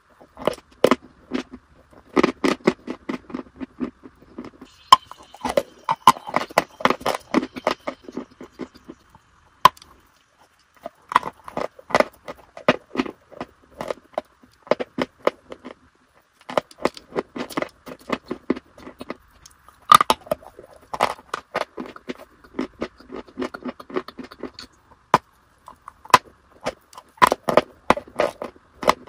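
Close-miked crunching and chewing of dry, powdery white chunks: clusters of crisp crackles, broken by short pauses every few seconds.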